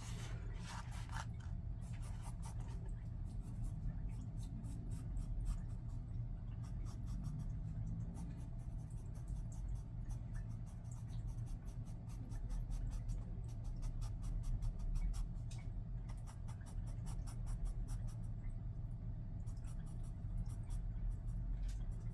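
Pencil scratching on paper in many quick short strokes as it draws, over a steady low hum.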